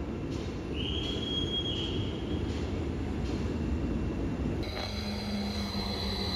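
Deutsche Bahn ICE train rolling slowly through the station, a steady low rumble with a high squeal for under two seconds about a second in. After about four and a half seconds a Stadler FLIRT electric multiple unit pulling in takes over, a high steady whine and a low hum over the rumble.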